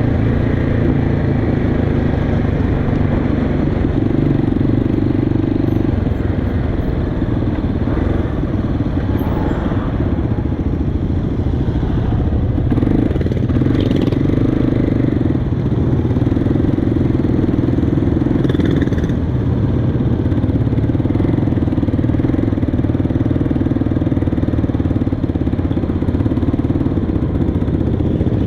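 Motorcycle engine running steadily and close, its pitch shifting a few times as the throttle changes.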